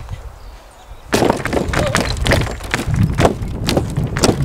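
Footsteps knocking and thumping on the wooden planks of a suspension bridge, starting about a second in as a quick, irregular run of knocks.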